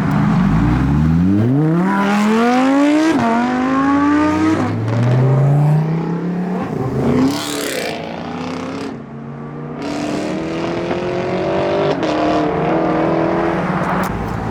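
A modified car's engine accelerating hard away: its pitch climbs steeply, drops sharply at an upshift about three seconds in, and climbs again, with more engine revving and acceleration after it.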